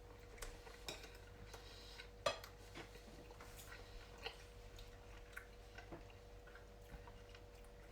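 Scattered faint clicks and light taps, with one sharper knock about two seconds in, over a faint steady hum.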